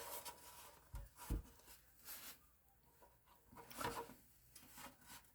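Faint handling sounds of computer circuit boards being examined: light rubbing, with two soft knocks about a second in.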